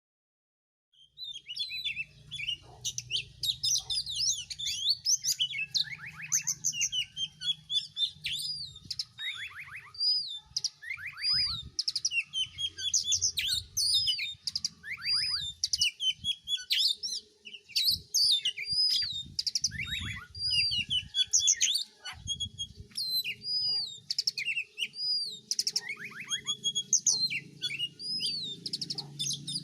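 Oriental magpie-robin (kacer) singing a long, varied song of clear whistles, rapid trills and downward-sweeping notes, starting about a second in.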